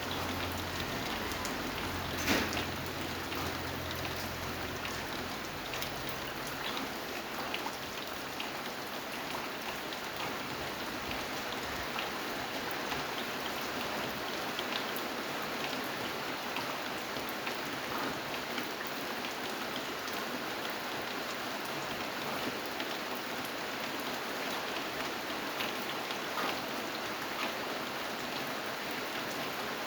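Steady rain with many individual drops ticking on a surface, and one louder drop or knock about two seconds in. A faint low hum sits under it for the first few seconds.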